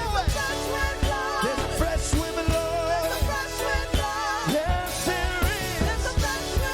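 Live worship band playing upbeat gospel music with a steady drum beat and bass, as a singer holds and slides between notes with vibrato, without clear words.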